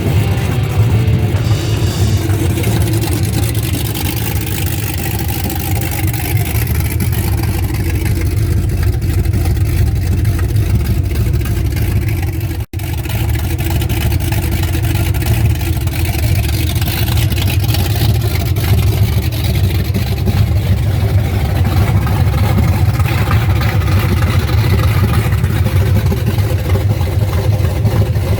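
Loud car engine running steadily, with one sudden brief break about halfway through.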